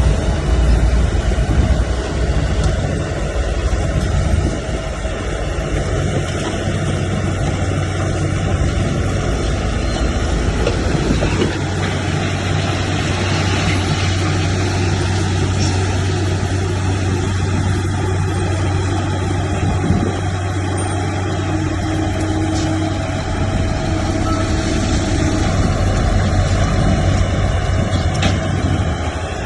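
Heavy diesel earthmoving machinery running steadily with a deep, continuous engine hum. The engine note shifts and settles into a steadier drone about eleven seconds in.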